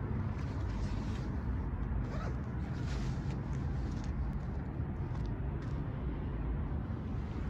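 Steady low rumble of a distant approaching freight train's diesel locomotives.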